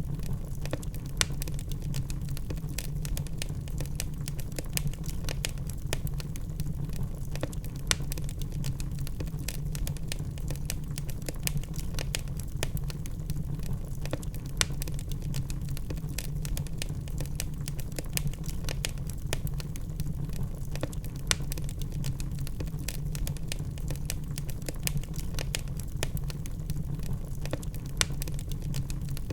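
Wood fire burning in a fireplace: logs crackling with a dense run of small clicks over a steady low rumble, and a louder pop every several seconds.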